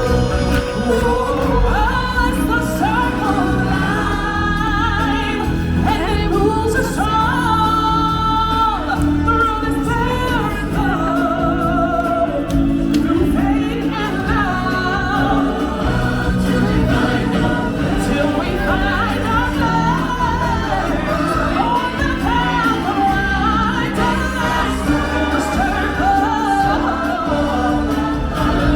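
Live stage-show music with a group of voices singing together over a band track, like a choir.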